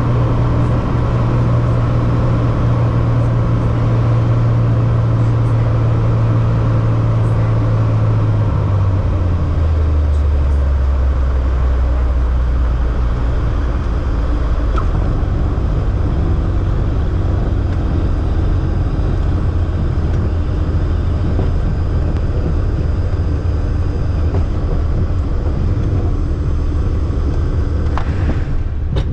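Airliner cabin noise during a landing: a loud, steady rumble of engines and airflow, with a low drone that drops in pitch about nine seconds in.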